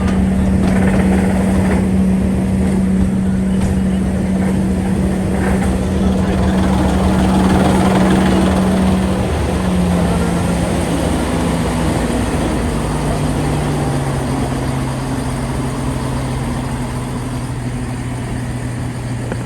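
Snowdon Mountain Railway rack train running, heard from inside the carriage: a steady rumble under an engine hum that drops in pitch in steps about ten and thirteen seconds in.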